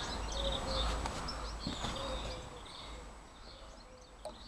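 Birds chirping now and then over a low outdoor rumble, the sound fading down near the end.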